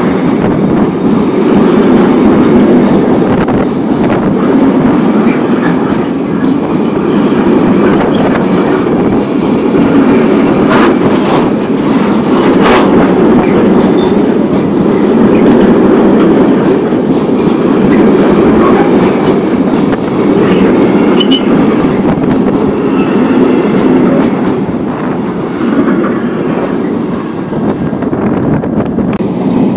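Freight train of log-loaded stake wagons rolling past close by: a steady, loud rumble of wheels on rail, with a few sharp metallic knocks near the middle, easing a little near the end as the last wagon goes by.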